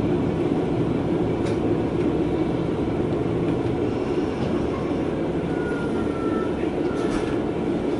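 Steady running noise heard inside a KiHa 120 diesel railcar on the Sanko Line, the engine and wheels on the rails rumbling evenly. A faint thin wheel squeal comes in for a second or two past the middle.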